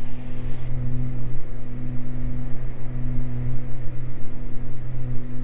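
Cabin drone of a Beechcraft G58 Baron's twin six-cylinder piston engines and propellers at climb power, a steady low hum.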